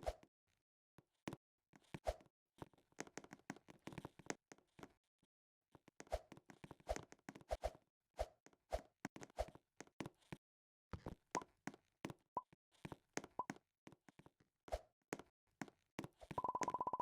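Irregular light clicks and taps, several a second in spells. Near the end a buzzing beep starts and continues.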